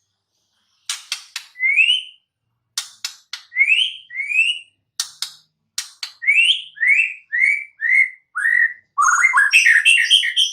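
White-rumped shama singing: sharp clicks interleaved with a series of clear upslurred whistles, starting about a second in and ending in a fast jumbled run of notes.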